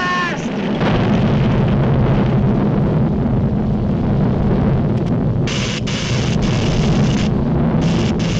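Cartoon sound effect of a volcano erupting: a continuous deep rumble, joined by a hiss about five seconds in.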